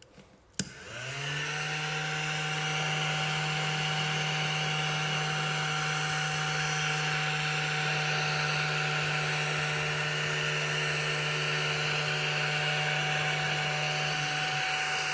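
Small battery-powered desktop vacuum cleaner (ODISTAR mini table sweeper) switched on with a click, its motor spinning up in pitch over about a second and then running with a steady hum and airy whine.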